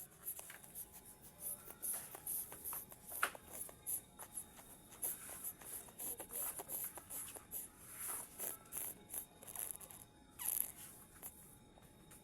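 Irregular rustling, scraping and clicks of something being handled, with a short falling scrape about ten and a half seconds in.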